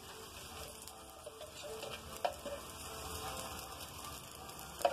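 Wheat-flour sweet dosa sizzling in oil on a hot tawa, a soft steady crackle, as its second side cooks after the flip. Two light clicks: one a little over two seconds in, one near the end.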